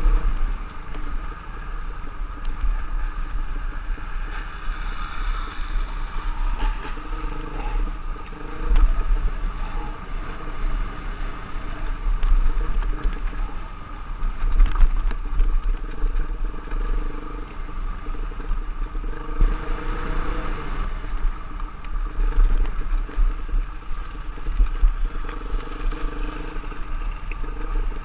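Off-road trail bike engine running as the bike is ridden, its note rising and falling with the throttle. Heavy wind buffeting on the camera microphone runs under it.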